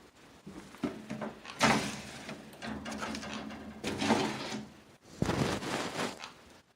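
A pet bird handling a plastic bottle cap: about three bouts of the cap scraping and knocking against a hard surface.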